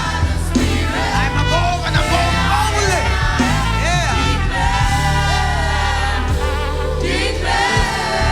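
Live gospel praise and worship music: a choir of voices singing over a steady band accompaniment with sustained low keyboard and bass tones.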